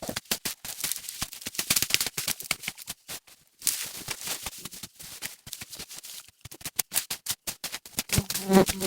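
Dense crackling and snapping of dry leaves and twigs being trampled or worked through. Near the end an insect buzzes close by in a steady drone.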